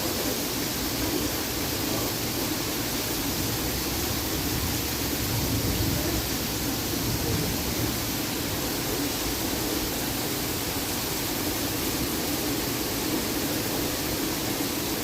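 Steady hiss of heavy rain falling during a thunderstorm, even and unbroken, with no thunder.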